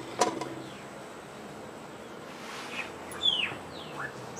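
Wild birds calling: a few sharp clicking notes at the start, then short downward-slurred whistles and a brief rising note near the end.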